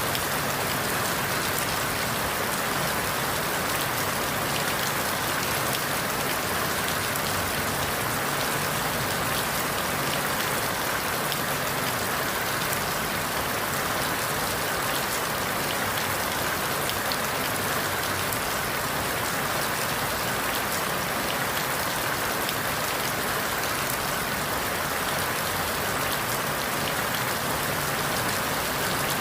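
Steady rain falling through forest leaves, a constant even hiss with faint individual drop ticks.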